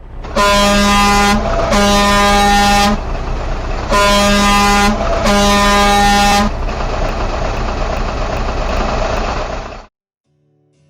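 Truck air horn sounding four steady blasts in two pairs, each about a second long, over a low vehicle rumble that carries on after the last blast and cuts off suddenly near the end.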